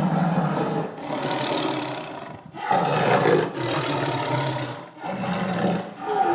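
A big cat roaring in a run of about six rough, drawn-out calls separated by short breaks.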